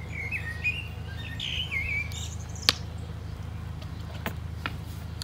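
A bird chirping and warbling for about two seconds, then one sharp click, the loudest sound, and a couple of fainter clicks later, over a steady low hum.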